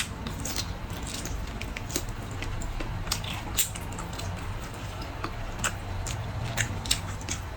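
Close-miked eating sounds: irregular wet smacks and clicks of chewing, several a second, over a steady low hum.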